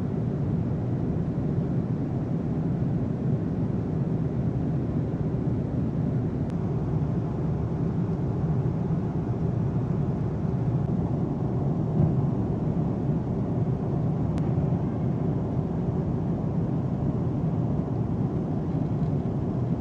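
Steady low rumble of an aircraft in flight, jet engines and airflow, holding an even level throughout.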